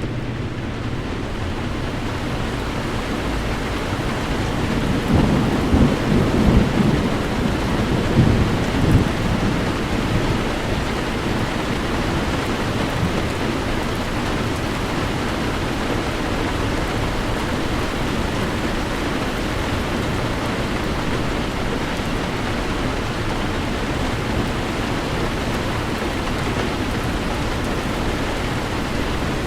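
Heavy rain on a car driving through a storm, a steady rush of noise, with a low rumble of thunder swelling between about five and nine seconds in.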